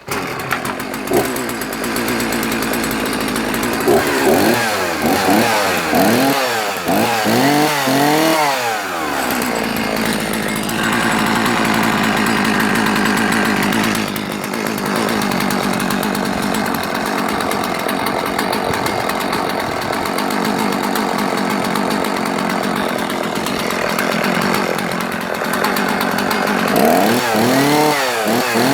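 Husqvarna 50 two-stroke chainsaw running just after a cold start with the choke off. It is revved in a series of quick throttle blips several seconds in, then idles steadily, and is blipped again near the end.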